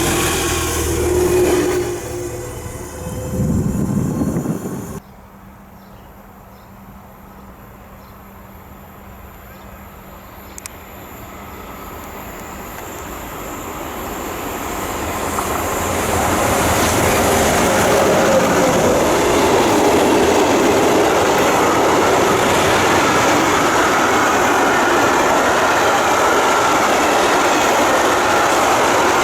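Train sound that cuts off abruptly about five seconds in. Then another train approaches, growing steadily louder over several seconds, and passes through the station as a loud, sustained rush of wheels on rails.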